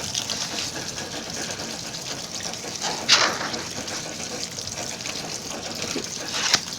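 Washing machine with water rushing steadily, and a brief louder swoosh about three seconds in and again near the end.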